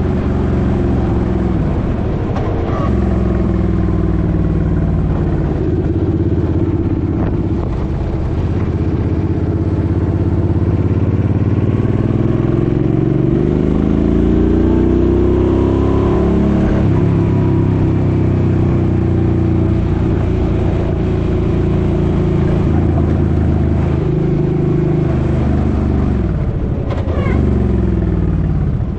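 Suzuki Boulevard M50's V-twin engine running under way. Its pitch rises for a few seconds about halfway through as it speeds up, drops, then falls away and picks up again near the end.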